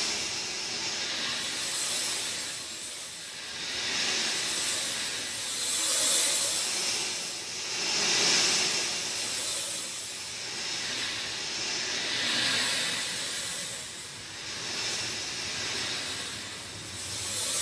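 Steady rain: a dense hiss that swells and eases about every two seconds.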